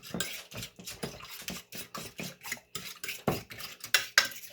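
Egg, milk and cinnamon-sugar batter being beaten in a bowl, a utensil clicking and scraping against the bowl about four or five times a second.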